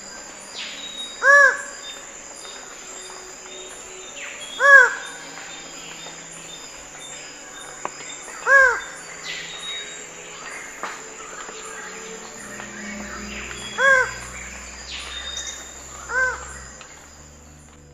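A bird giving five short, loud, rising-and-falling calls spaced a few seconds apart, the fifth a little weaker, over a steady hum of forest insects and fainter bird calls.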